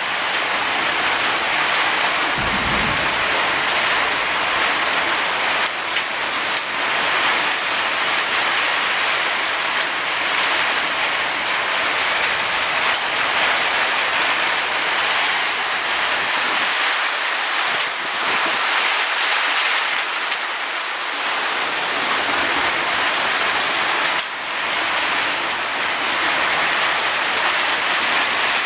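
Hail and torrential rain drumming on a roof, a dense, steady clatter of many small sharp ticks over the hiss of the downpour. A brief low rumble comes about two and a half seconds in.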